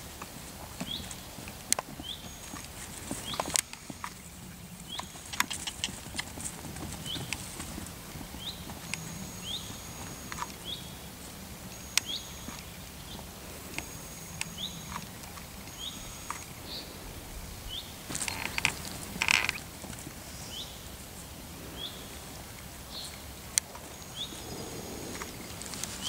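A small bird chirping over and over, a short call about once a second, with a few brief high whistles between. Scattered sharp clicks and a short rustling burst about three quarters of the way through.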